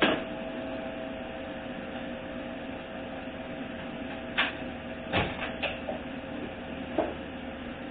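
A handful of sharp clicks and knocks from metal hand tools being handled and set down: one at the start, a quick cluster around the middle and one more near the end, over a steady background hum.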